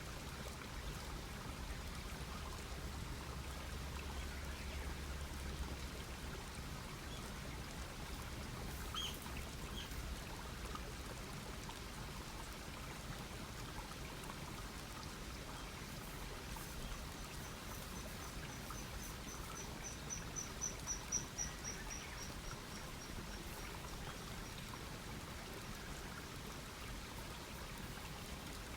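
Wood campfire crackling steadily with scattered small pops. A bird gives a few short high chirps about nine seconds in, then from about seventeen seconds a long trill of rapid high notes, about four a second, that swells and fades over several seconds.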